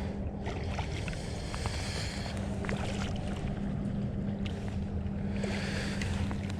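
Wind buffeting the microphone on a fishing kayak out on the water, under a steady low hum. Scattered small clicks and two short bursts of hiss, one about two seconds in and one near the end.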